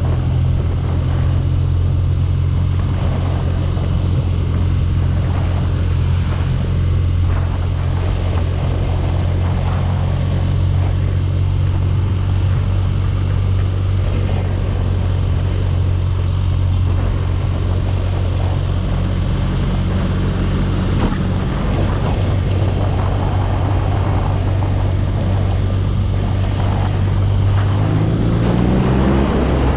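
BMW R nineT Urban G/S's 1170 cc boxer twin running at steady revs on the move. Near the end the revs climb as the bike accelerates.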